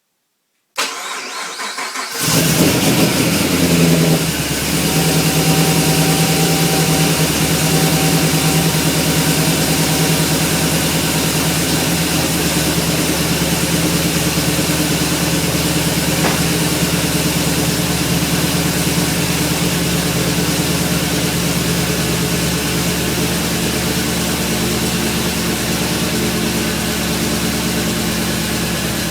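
Supercharged 6.2-litre V8 of a 2011 Camaro SS, with a Whipple supercharger and rough-idle cam, cranking on the starter for about a second and a half, then firing on its first start after the build, flaring up briefly and settling into a steady idle.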